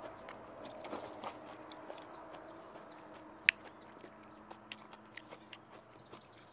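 Close-up mouth sounds of someone chewing a mouthful of greens and meat, with small wet clicks throughout and one sharp click about halfway through.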